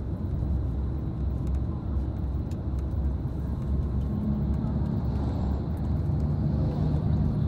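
Tour coach's engine and road noise heard from inside the cabin while driving: a steady low rumble.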